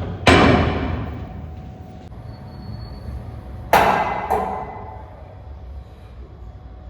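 Sharp metal clangs, each ringing briefly: one loud strike just after the start, then two more about half a second apart midway, over a low steady rumble.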